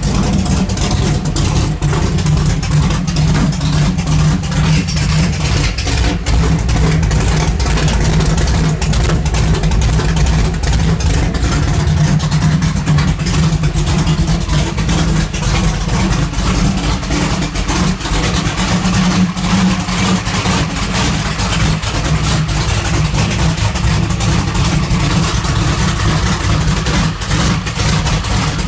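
Pro street 1956 Buick's engine idling steadily while warming up after a cold start, its sound concentrated low in pitch.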